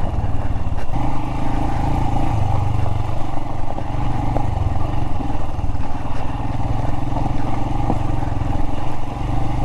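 Royal Enfield Himalayan's single-cylinder engine running steadily as the bike rides over rocky ground, with a few sharp knocks.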